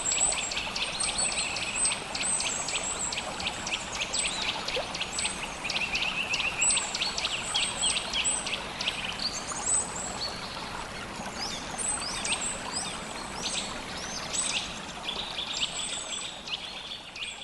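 Mountain stream flowing steadily, with small birds chirping rapidly and almost continuously over the water.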